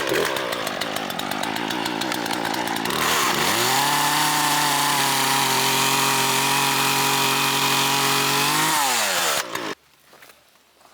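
Poulan Pro PR4218 two-stroke chainsaw running at full throttle while cutting wood. It starts suddenly; about three seconds in the pitch drops and holds steady, then falls and cuts off near the end.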